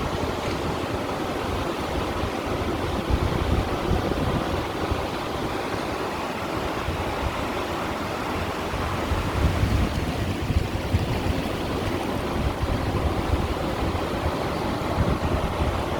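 Sea waves washing and splashing against shore stones in a steady wash, with wind rumbling on the microphone.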